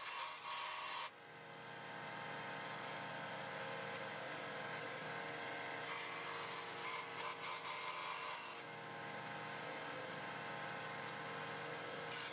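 An electric power tool running steadily with a humming whir, its tone shifting a few times as it runs.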